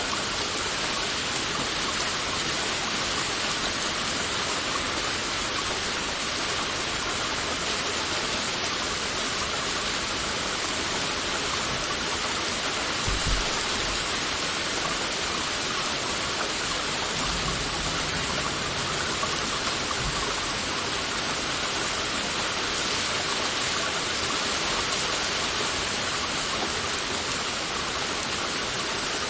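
Heavy rain falling as a steady, dense hiss, with a few brief low thumps about halfway through.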